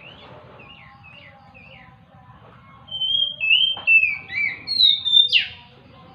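Oriental magpie-robin (kacer) singing: faint short chirps at first, then about three seconds in a loud run of clear whistled phrases that ends in a quick downward sweep.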